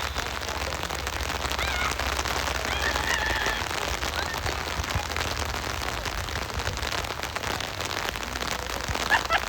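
Heavy rain falling steadily, a dense patter of drops with many small ticks, over a low rumble. Faint distant children's shouts come through a few times.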